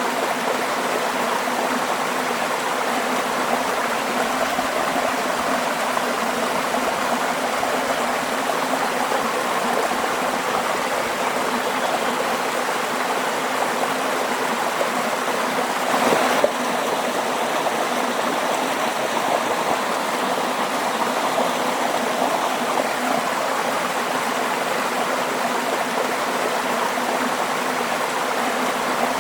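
Waterfall: water falling and rushing steadily, with a brief louder surge about halfway through.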